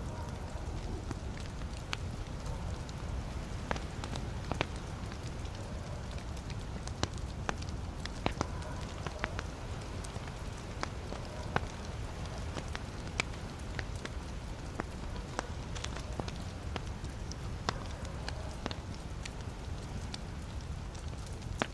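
Wood fire burning in a fireplace: a steady low rumble of the flames with sharp, irregular crackles and pops from the burning logs, a few each second.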